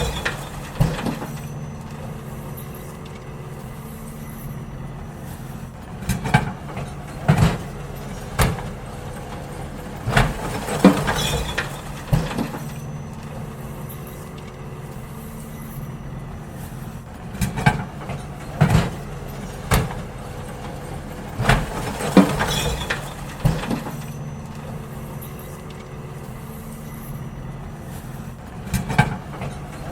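Garbage truck idling steadily while bins are emptied into it: runs of loud clunks and bangs from the bin lifter and bins, coming in two clusters several seconds long.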